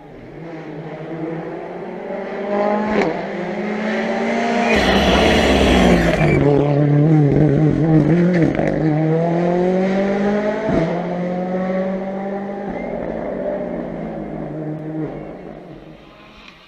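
A rally car on a special stage approaches, passes close and drives away, its engine revving hard and changing pitch repeatedly through gear changes, with a couple of sharp cracks along the way.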